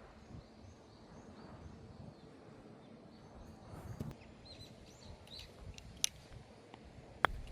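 Small birds chirping over a low, uneven wind rumble, with two sharp clicks near the end, the second the loudest.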